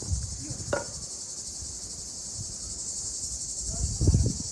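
A steady, high, shrill insect chorus buzzing without a break. A few low rumbles on the microphone come through it, the loudest about four seconds in.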